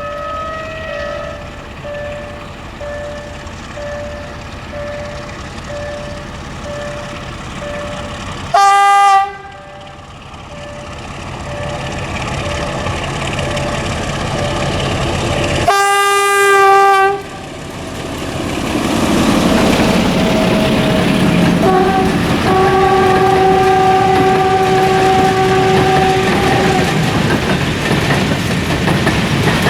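Train horn sounding a short blast, then a longer one about seven seconds later, as the train approaches. The rumble of the train passing rises after that, with wheels clicking over the rail joints, while a steady tone sounds again more quietly. Before the horn, a beeping tone repeats about twice a second.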